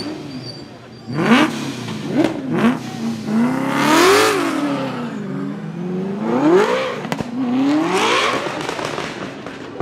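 Drift car engine revving hard, its pitch climbing and dropping several times in quick succession.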